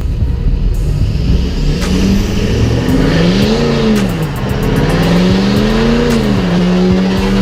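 Pickup truck engine revved up and back down twice, then held steady at high revs, the run-up to a burnout.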